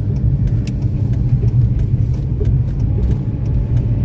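Steady low engine and road rumble inside the cab of a moving vehicle.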